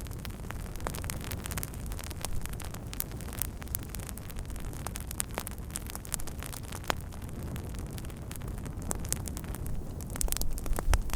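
Campfire burning, the wood giving off frequent sharp crackles and pops over a steady low rush that grows louder near the end.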